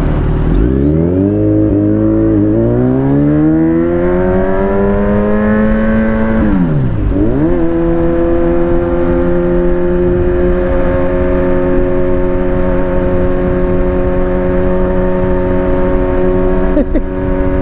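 Kawasaki Z900 inline-four motorcycle engine under way. The revs climb for several seconds with a brief hitch partway. Around seven seconds in they dip sharply and come back at a gear change. It then settles into a steady cruise, with a rush of wind and road noise underneath.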